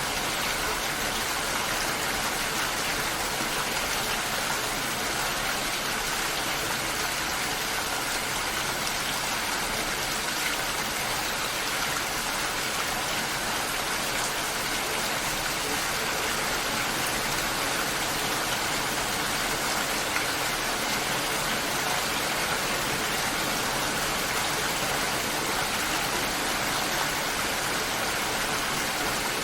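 Steady rain falling, a dense even hiss of drops with no breaks.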